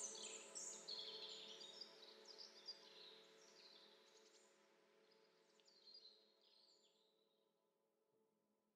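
Faint birds chirping over a low steady hum, fading out to near silence.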